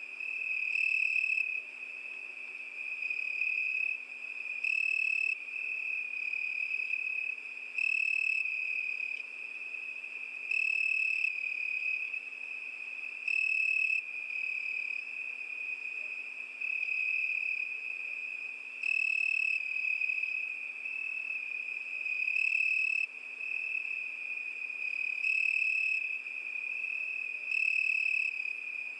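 Crickets singing at night: a continuous high-pitched trill that swells louder for about a second every few seconds.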